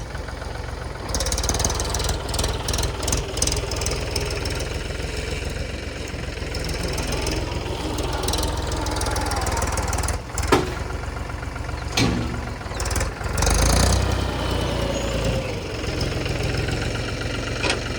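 Mahindra tractor's diesel engine running with a steady low rumble, with a few sharp knocks about ten, twelve and thirteen seconds in.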